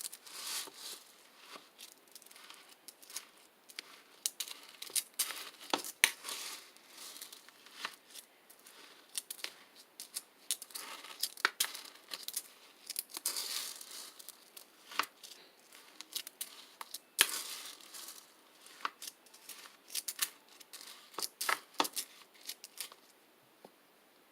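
Slime being handled, pressed and stretched by hand, giving irregular sharp clicks, crackles and pops. The crackling stops shortly before the end.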